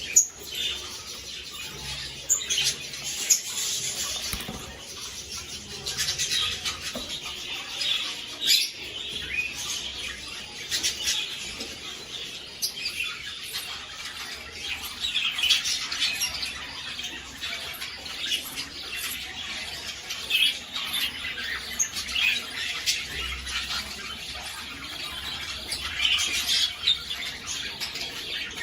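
Budgerigars chirping and chattering without a break: many short, high chirps in quick succession.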